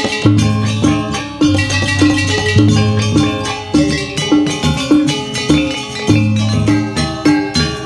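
Gamelan ensemble accompanying a Janger dance: struck metallophones ringing over drums in a steady, repeating rhythmic pattern, with strong beats about twice a second.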